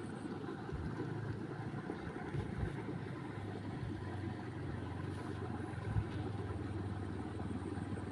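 A steady low hum from a running engine, with a brief knock about six seconds in.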